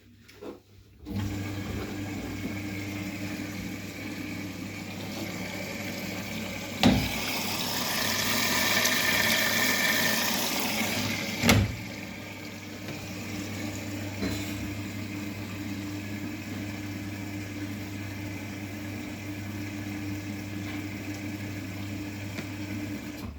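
Bosch washing machine taking in water through its inlet valve: a steady hum with rushing water that starts about a second in and cuts off suddenly near the end. Two sharp knocks come about four and a half seconds apart, and the water is louder between them.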